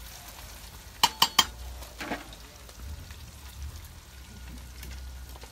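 Bacon frying in its grease in a stainless steel pan, a steady faint sizzle. Three sharp clicks come just after a second in, and a softer one about a second later.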